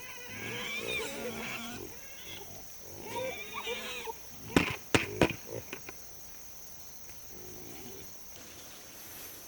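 Wavering animal calls in two short runs, then a few sharp knocks about halfway through, over a steady high-pitched whine.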